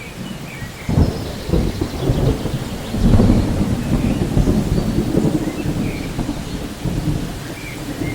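Thunder rumbling over steady rain, swelling about a second in and again around three seconds, with faint bird chirps above.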